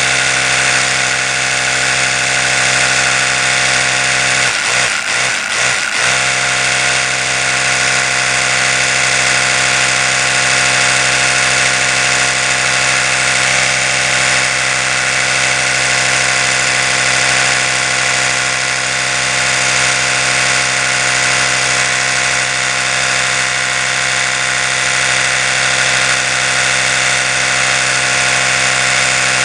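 Electric toothbrush running continuously with a steady buzzing hum, briefly wavering for a moment about five seconds in.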